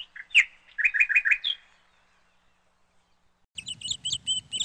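Small birds chirping in short, rapid runs of high notes that stop a little under two seconds in. After a brief lull, a quicker run of repeated higher notes over a low hum starts near the end.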